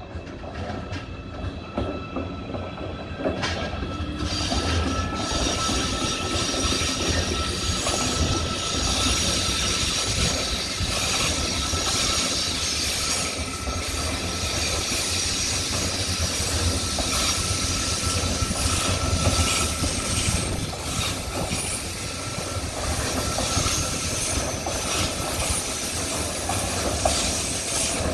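A train running on the rails, growing louder over the first few seconds and then staying steady: a continuous rumble and hiss of wheels on track, with a thin, steady wheel squeal and scattered clicks over the rail joints.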